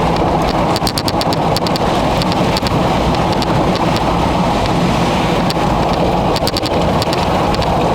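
Steady road and engine noise heard inside a moving vehicle, with rain and wind against it and recurring clusters of rapid, sharp ticks.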